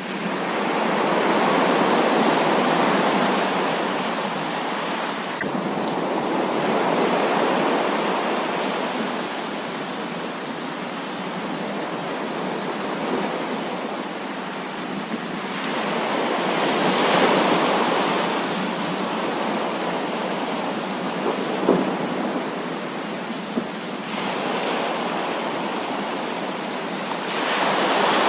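Heavy rain falling steadily, with thunder swelling up and dying away several times, and two brief sharp snaps a little past the middle.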